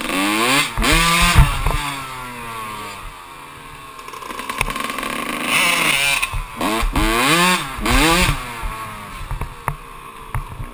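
Kawasaki KX125 two-stroke dirt bike engine revving hard in repeated bursts, the pitch climbing steeply and falling back each time the throttle is opened and shut. There is a quieter off-throttle stretch about two seconds in, then a run of sharp rev-ups.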